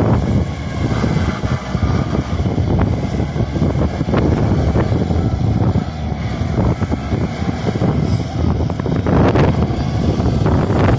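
Kubota four-wheel tractor's diesel engine running steadily under load, with a few short knocks and rattles, one louder about nine seconds in.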